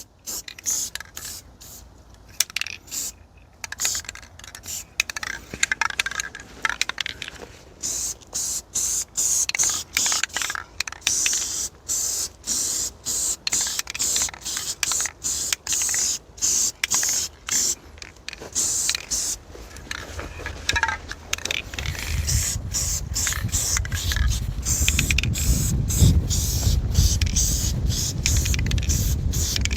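Aerosol spray can of Rust-Oleum flat black enamel hissing in many short, repeated bursts with brief gaps between them. From about two-thirds of the way through, wind rumbles on the microphone under the spraying.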